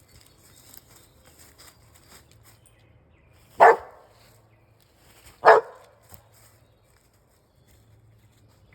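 An Australian Shepherd barking twice, two loud single barks about two seconds apart.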